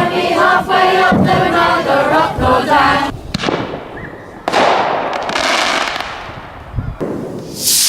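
A crowd of voices chanting together, then fireworks going off: a sudden loud burst about four and a half seconds in that hisses and fades away, and a sharp hissing, crackling burst near the end.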